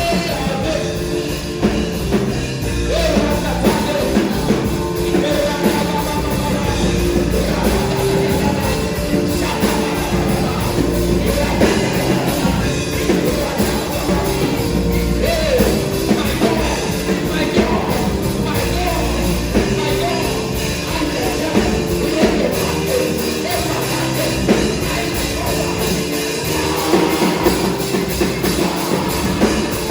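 Live gospel worship music: a band with drums keeping a steady beat under held keyboard chords, with voices singing over it.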